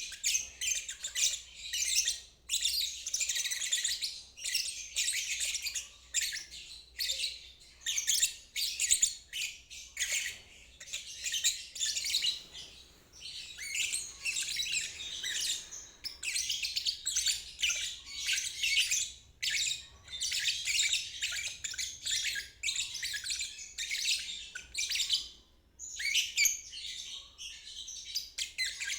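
Lovebird singing its rapid, high-pitched chattering warble (ngeriwik) in long phrases broken by brief pauses. It is used as a training song to teach young lovebirds to sing.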